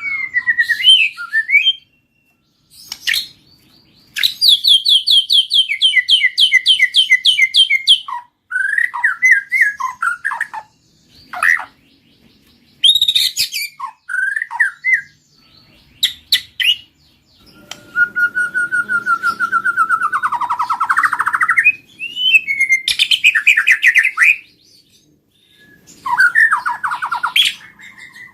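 White-rumped shama (murai batu) singing: a varied run of loud whistled phrases and fast trills of repeated notes, broken by short pauses, with one long trilled phrase lasting several seconds past the middle.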